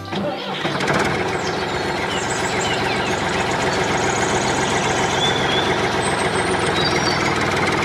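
Tractor engine running steadily, starting about half a second in as the music cuts out.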